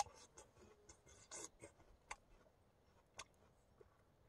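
Near silence broken by a few faint, scattered crunching clicks of raw yacon root being chewed.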